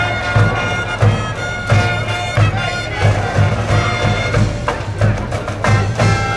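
High-school baseball cheering band playing a cheering song: sustained brass melody over a steady bass-drum beat.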